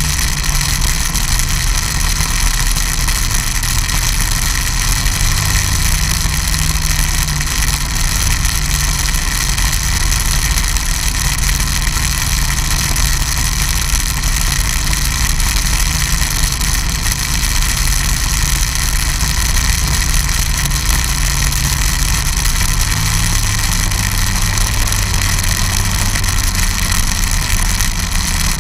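Snowmobile engine running steadily and loudly, its pitch shifting slightly now and then as the throttle changes, with no break.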